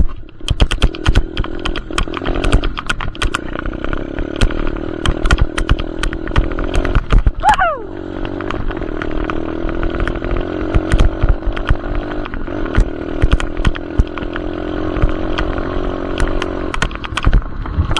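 Dirt bike engine running hard under throttle, its pitch held high and then briefly dropping and picking up again several times as it shifts or comes off the gas. Frequent sharp knocks and clatter run through it.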